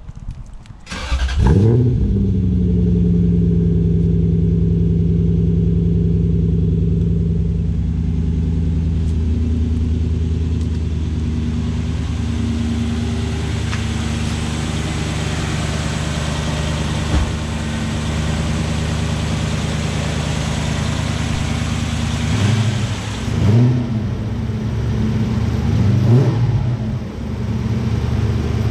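Toyota 1UZ 4-litre V8 through a 3-inch exhaust starting up about a second in, then idling steadily. Near the end the throttle is blipped several times, the revs briefly rising and falling.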